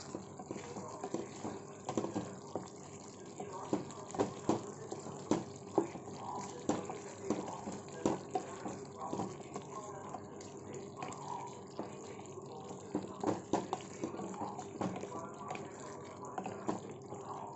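Thick chicken curry in cashew-tomato paste simmering in a pan over a medium flame. Its bubbles pop irregularly, several at a time in places, over a steady low hiss.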